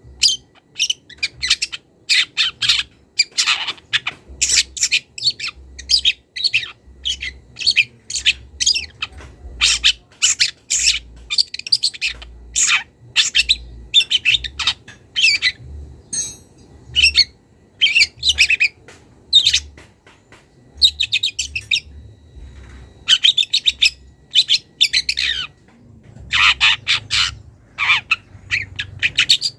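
Young wild long-tailed shrike singing a fast, continuous run of short, sharp chirping and harsh notes, with brief pauses; the bird is starting to bring out the mimicked songs of other birds in its repertoire.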